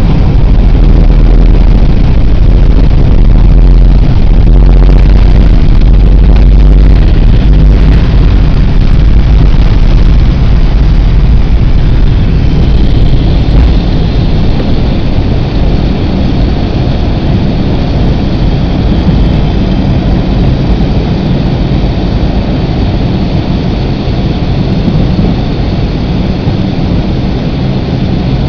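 Boeing 727-200 taking off, heard from the cabin: the loud roar of its three JT8D turbofan engines at takeoff power. A heavy low rumble under the roar eases about eight seconds in, and a steady hiss comes in from about twelve seconds on.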